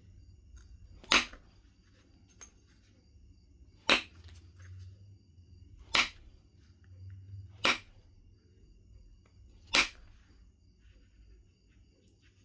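Knife River flint being knapped: five sharp cracks spaced about two seconds apart, each a flake snapping off the stone.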